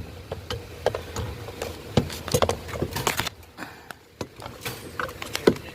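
Irregular clicks and light knocks of parts being handled and fitted by hand during steering column work.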